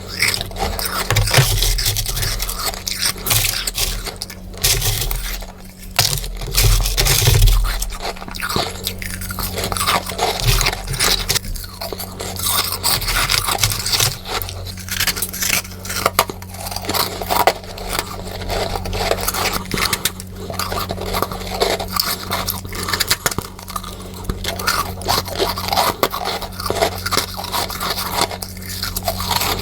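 Freezer frost being scraped and bitten, a dense, unbroken run of crisp crunching and crackling, the playback sped up.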